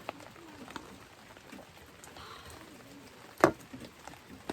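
Steady rain falling, with scattered drops ticking, and one sharp knock about three and a half seconds in.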